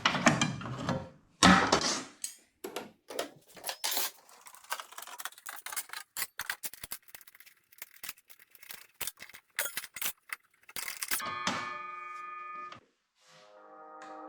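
Irregular clicks and knocks, like small objects or tools being handled. About eleven seconds in comes a short steady chime-like chord, and music fades in near the end.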